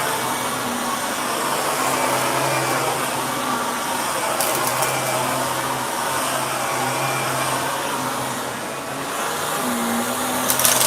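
Shark vacuum cleaner running steadily, its motor note wavering as it is pushed around. There are brief crackling rattles about four seconds in and again near the end.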